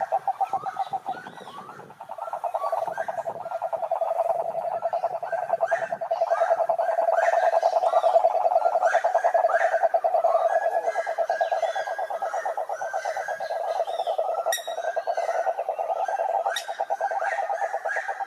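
Chorus of many frogs calling at a pond: a dense, rapid pulsing trill at a steady pitch, overlaid by many shorter rising calls. The trill thins out for a moment a second or so in, then resumes.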